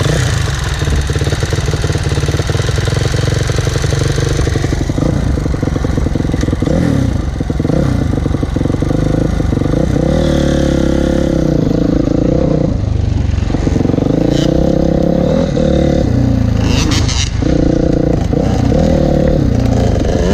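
Motocross bike engine revving hard while riding, its pitch climbing and dropping again and again with throttle and gear changes, over a steady rushing noise in the first few seconds.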